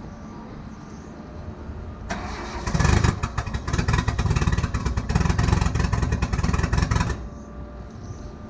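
Mitsubishi 4G63 turbo four-cylinder engine cranked and firing, running roughly for about five seconds before cutting out abruptly. It is a first test-fire of the freshly swapped engine, run without its charge pipe fitted.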